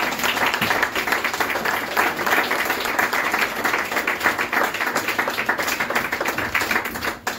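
Audience applauding, a dense run of many hands clapping that thins out near the end.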